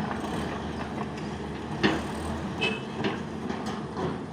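Heavy diesel machinery running steadily, with several sharp metallic clanks and knocks, the loudest about two seconds in.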